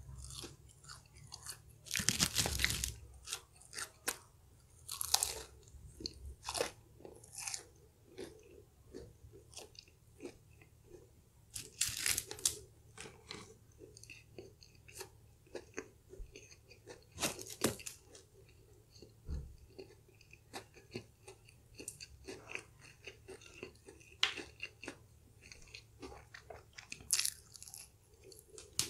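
Chewing and crunching on fried chicken pieces, with sharper crunching bites every few seconds, the loudest about two seconds in.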